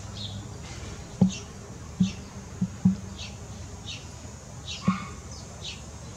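A small bird chirping outdoors: a run of short, high chirps, each dropping in pitch, about one or two a second. Five dull low thumps come in among them, the loudest of them about a second and three seconds in.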